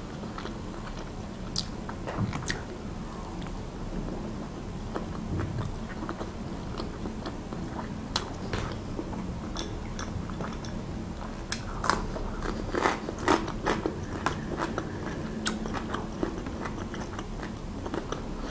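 Close-miked mouth sounds of eating: a mouthful of minced-lamb cutlet being chewed, with many short wet clicks and smacks. A few louder bites come about two-thirds of the way in.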